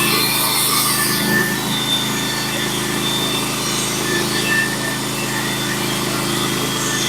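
Norwood HD36v2 bandsaw sawmill running steadily under load, its blade cutting a plank off a pitch pine log over a steady engine drone.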